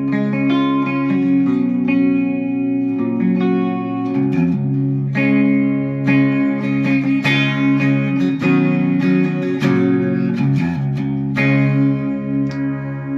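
Chapman SAR63 electric guitar played plugged in, a run of ringing chords and picked notes through effects.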